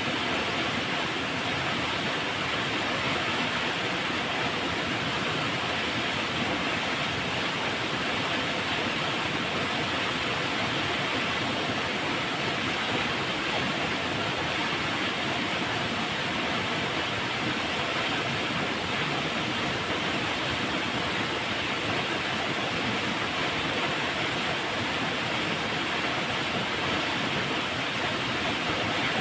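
Flowing river water rushing steadily, an even, unbroken wash of noise.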